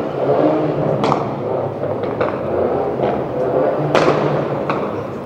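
A car engine running steadily, with about five sharp bangs or knocks spread through; the loudest comes about four seconds in.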